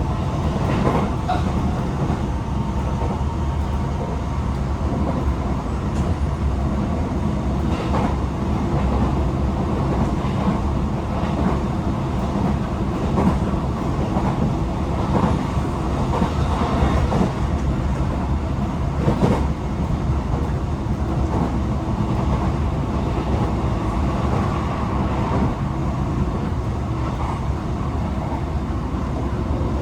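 Running noise heard inside a Tokyo Metro 18000 series electric train car: a steady rumble of wheels on rail, with a few brief knocks scattered through it.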